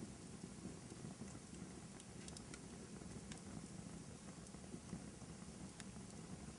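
Fireplace fire burning with a soft low rumble and scattered small crackles and pops.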